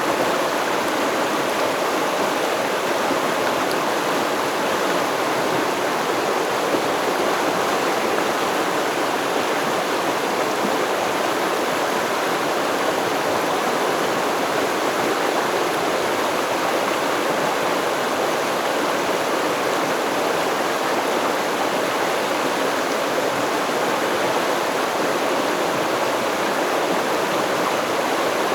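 Flowing river stream: a steady, even rush of water that does not change.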